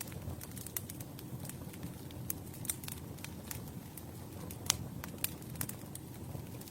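Campfire burning: a steady low rumble of flames with irregular sharp crackles and pops of burning wood, one louder pop about two-thirds of the way through.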